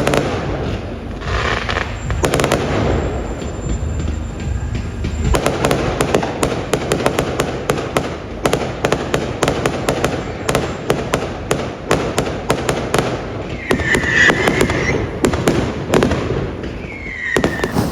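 Fireworks display going off: a few scattered bangs, then from about five seconds in a dense, rapid crackling of many sharp cracks, with two short whistling tones near the end.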